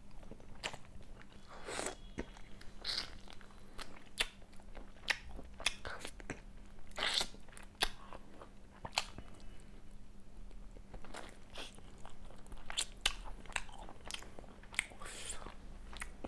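Close-miked eating sounds of a person chewing and biting chicken kosha, a Bengali chicken curry: irregular mouth clicks and chews, some louder than others.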